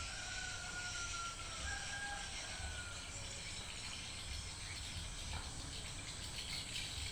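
A rooster crowing twice, two long, slightly falling calls in the first three seconds, over a steady outdoor background hiss.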